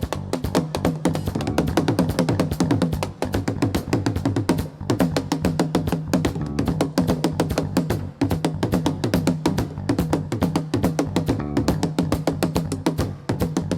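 Live band playing an instrumental afro-fusion passage: fast, busy hand percussion and drums over a steady bass line, with guitar.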